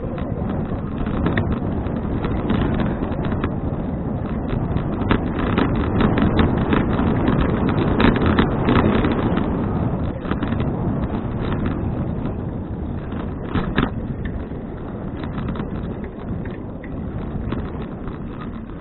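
Wind rushing over an action camera's microphone during a bicycle ride, with scattered clicks and rattles throughout.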